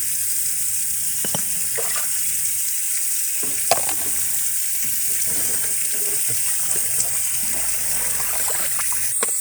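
Water rushing steadily from a leaking water-service pipe connection, with a single sharp knock about four seconds in.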